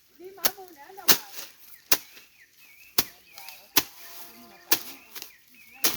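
Repeated chopping strokes of a slasher cutting vegetation, one sharp stroke about every second.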